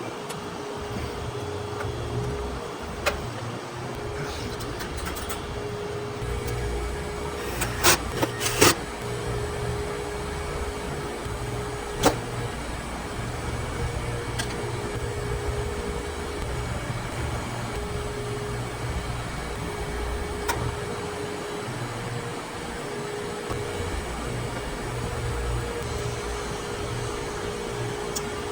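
Refrigeration vacuum pump running steadily while it evacuates an air-conditioning system after a compressor replacement, with a few sharp clicks from hand tools about three seconds in, a cluster of them near eight seconds, and one more soon after.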